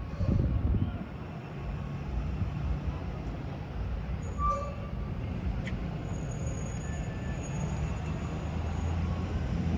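Road traffic: a steady low engine rumble of passing vehicles, loudest in a swell during the first second.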